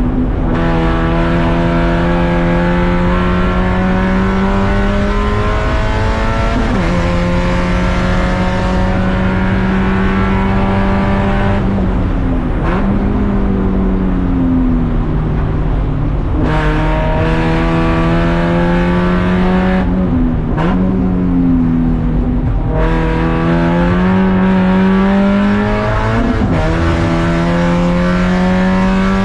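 Race car engine under hard racing load, heard onboard. Its pitch climbs through each gear and drops sharply at the shifts, with several dips and quick rises as it lifts and changes down for corners.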